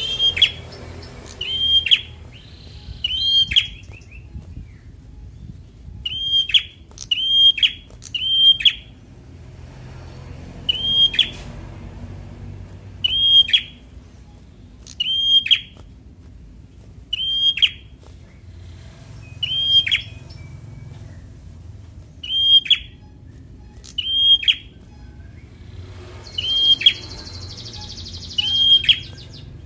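A young prinia calling over and over, one short, sharp, high note that hooks downward, repeated about every one and a half to two seconds.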